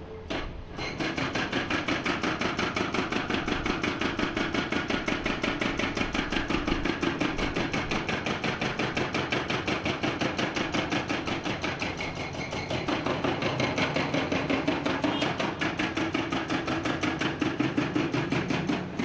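Hydraulic breaker hammer on a Komatsu PC490 excavator pounding rock in rapid, evenly spaced blows. It starts about a second in, with the excavator's engine running under it.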